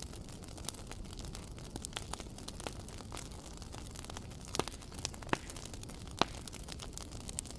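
Wood fire crackling in a fireplace: irregular sharp pops and snaps over a steady low background, with a few louder snaps in the second half.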